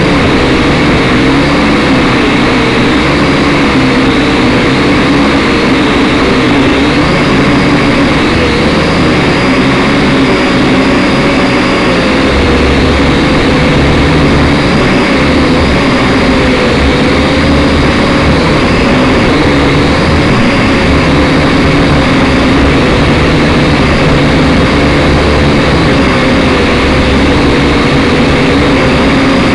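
Syma X5SC quadcopter's small electric motors and propellers whining steadily, the pitch wavering slightly as the throttle shifts, heard through its onboard camera. A low, uneven rumble of gusting wind runs beneath.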